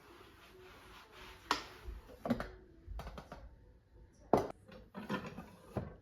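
A handful of separate knocks and clatters of household items being handled and set down, the loudest about a second and a half in and again about four seconds in.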